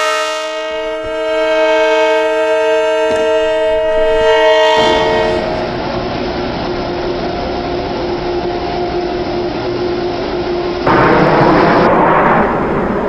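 Long Island Rail Road M3 electric train sounding one long horn blast of about four and a half seconds, then running past with steady wheel and rail noise that gets louder about eleven seconds in.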